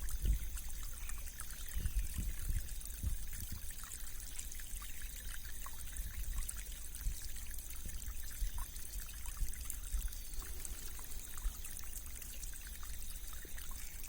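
Small stream swollen by monsoon rain, flowing and trickling steadily, with many small bubbling pops through the rush of water.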